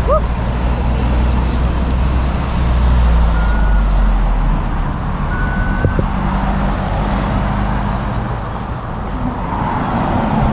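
Road traffic going by: motor vehicles passing, with a heavy engine's low rumble that fades about halfway through.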